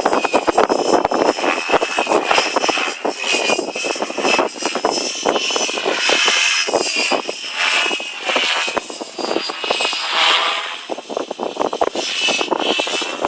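GAUI X5 electric RC helicopter flying: its motor and rotor give a high whine that shifts in pitch as it manoeuvres. Heavy wind buffets the microphone.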